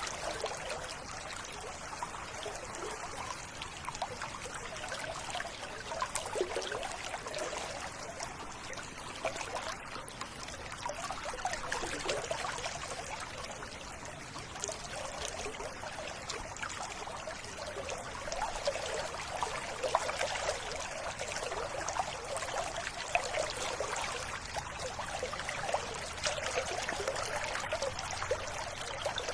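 River water running and trickling in a steady, burbling flow.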